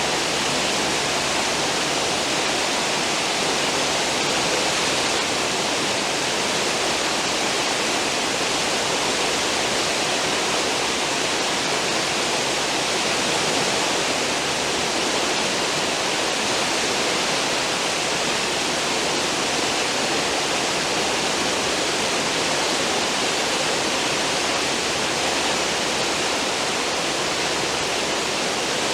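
Cruise ship's stern wake: a steady rush of churning, foaming seawater with no pauses or changes.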